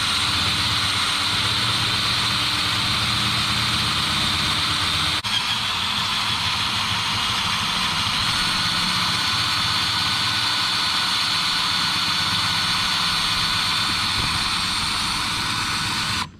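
Steady, loud machine whir with a faint high whine, running evenly with a brief break about five seconds in.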